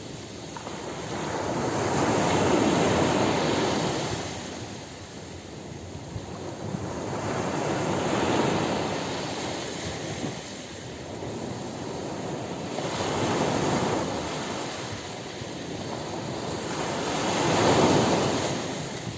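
Ocean surf breaking on a beach: a steady wash of waves that swells and ebbs four times, about every five seconds, the last surge the loudest.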